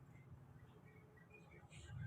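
Near silence, with a few faint short chirps from a yellow-vented bulbul (trucukan).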